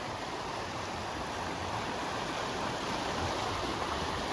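Swollen creek running high with snowmelt, its water rushing with a steady, even noise.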